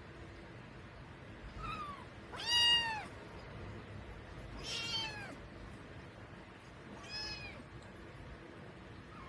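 Kitten meowing four times, high-pitched calls each rising and falling, the second one the loudest.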